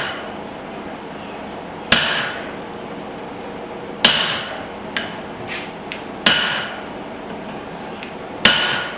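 Hand hammer driving a punch into red-hot spring steel on an anvil: four heavy, ringing blows about two seconds apart, with a few lighter taps between the second and third. The smith is striking to shear the slug out of the punched hole.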